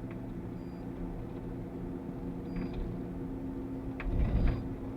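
Interior drone of a GAZ Sobol van cruising on the highway: steady engine and road hum. A faint short high beep repeats about every two seconds, and a louder low thump comes about four seconds in.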